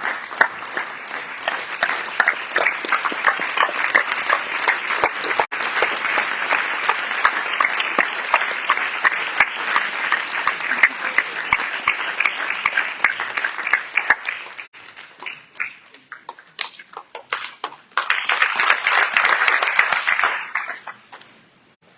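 Audience applauding. The dense clapping thins to scattered claps about two-thirds of the way through, then swells briefly again before dying away near the end.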